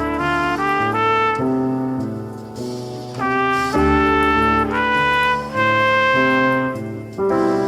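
Slow jazz instrumental with a trumpet playing a melody of held notes, some with small bends, over a lower accompaniment.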